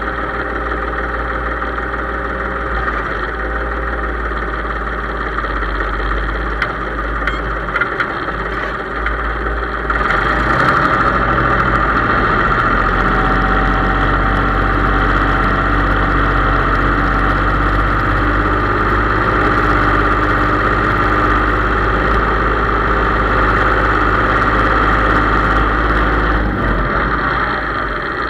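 Case IH 3220 tractor's diesel engine running steadily. It gets louder about ten seconds in, holds there, and eases back near the end.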